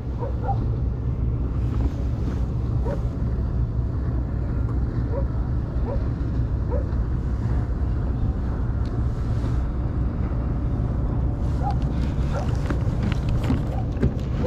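Wind buffeting the microphone on an open kayak, a steady low rumble over lapping water. A run of sharp ticks comes in near the end.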